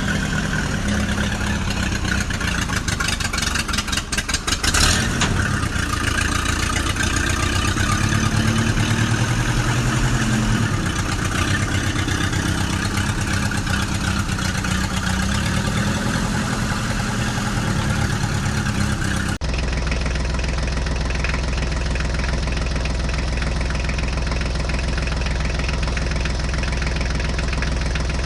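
Tractor engine running steadily, with a brief louder clatter about five seconds in. About two-thirds of the way through it cuts abruptly to a steadier, lower engine idle.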